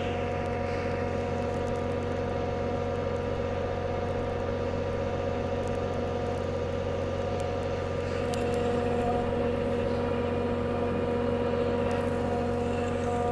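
Heavy vehicle engine running steadily at an even speed, growing a little louder about eight seconds in.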